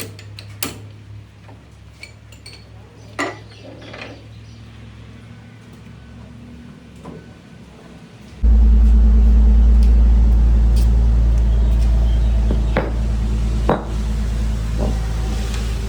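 Light metal clinks and knocks over a low steady hum. About eight seconds in, a loud, low, steady machine rumble starts abruptly and keeps running, with a few knocks over it.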